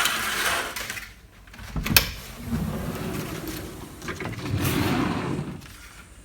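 Curtains being pulled open along their track, then a sharp click and a sliding door rolling open in two pushes.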